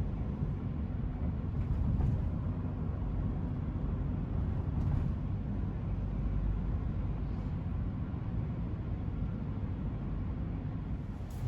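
Steady low rumble of a vehicle travelling on the road, engine and tyre noise.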